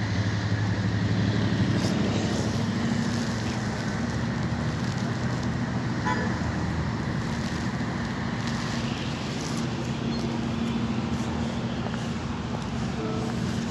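Steady rumble of a moving vehicle, a low engine drone over broad running noise, unchanging throughout.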